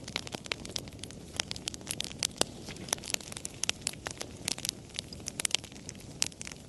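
Wood fire crackling, with frequent sharp irregular pops and snaps over a low steady rumble of burning.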